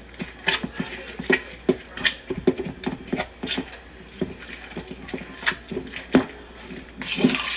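A wet canned-chicken, black bean and sauce mixture being stirred in a bowl: irregular taps and clicks of the utensil, several a second.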